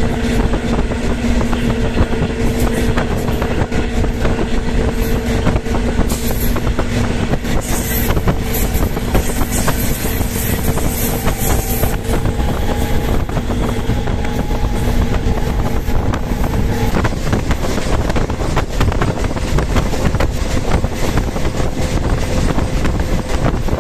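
Diesel multiple unit (DMU) passenger train running at speed: a loud, steady rush of wheels on rail and moving air, with a steady engine hum that stops about seventeen seconds in.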